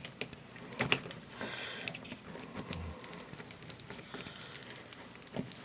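Scattered light clicks and small scrapes from hands working the wire connectors and thermal fuse on the sheet-metal back panel of an electric dryer.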